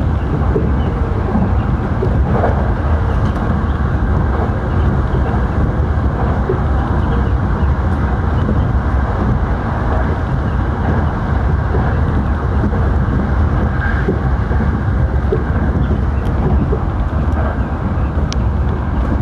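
Sanyo Electric Railway train running at steady speed, a constant rumble of wheels and motors heard from inside the car at the front.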